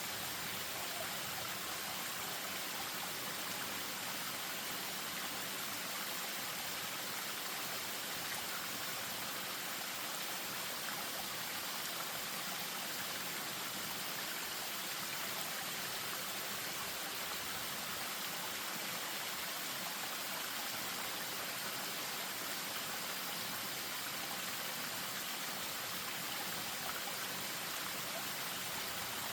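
Spring-fed stream running over a small waterfall, a steady, even rush of water.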